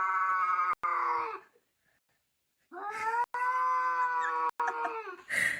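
A pet animal howling: two long, steady, drawn-out calls, the first fading out about a second and a half in and the second starting near the middle and lasting about two and a half seconds.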